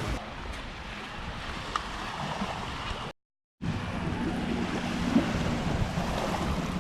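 Sea surf washing and wind buffeting the microphone, a steady rushing noise that cuts out completely for about half a second a little past three seconds in.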